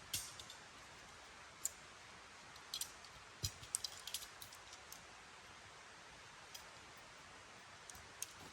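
Scattered sharp light clicks and ticks, irregular and bunched together about halfway through, over a faint steady hiss.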